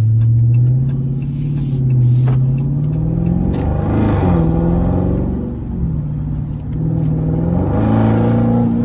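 2020 Dodge Charger Scat Pack's 392 Hemi V8, with the mid muffler (resonator) deleted, pulling hard under full-throttle acceleration with a deep, raspy exhaust note. The engine pitch climbs, drops at a gear change about four seconds in, then climbs again.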